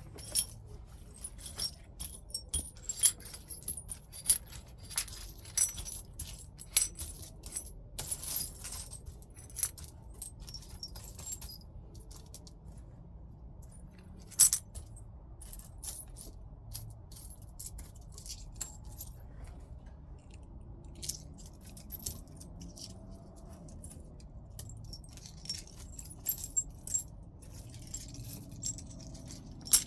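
Heat-treated Burlington chert being knapped: irregular sharp clicks and chinks as flakes are struck or pressed off the stone, thinning out for a while midway before picking up again.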